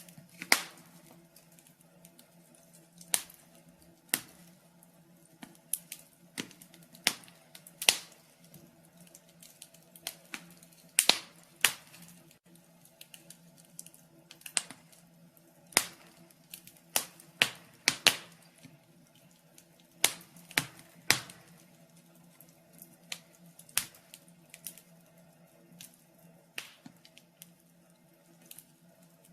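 Burning firewood crackling in a fireplace: sharp, irregular pops and snaps, roughly one or two a second at uneven intervals, over a faint steady low hum.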